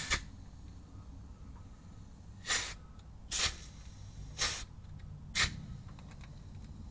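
Pneumatic grease gun firing in short hissing bursts, five in quick succession a second or so apart, as it pumps grease into a driveshaft grease nipple.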